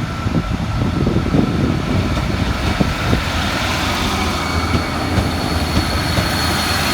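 A Class 390 Pendolino electric train drawing into the platform. Its running noise is loud and steady, with faint high whining tones over it.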